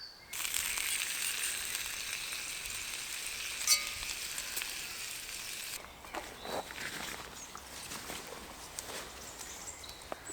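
Food sizzling as it fries in a hot pan, a steady hiss that starts suddenly and cuts off abruptly a little past halfway, with one sharp pop about three and a half seconds in. Faint knocks and rustles follow.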